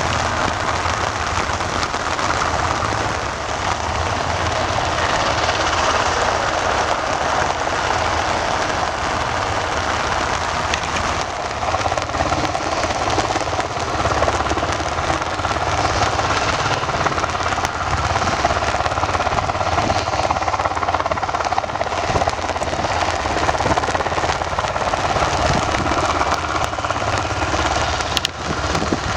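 UH-60 Black Hawk helicopter running steadily, its twin turboshaft engines and rotor making a continuous loud noise, with rain falling.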